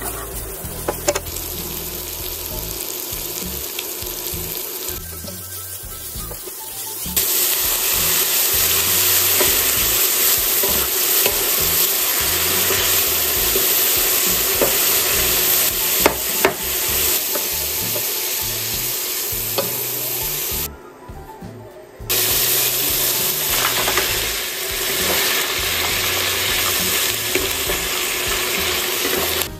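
Chopped onion, then sausage meat and mushrooms, sizzling in oil in a nonstick frying pan as they are stirred with a wooden spatula, with a few scrapes and knocks of the spatula. The sizzle steps up louder about seven seconds in and dips for a moment about two-thirds of the way through.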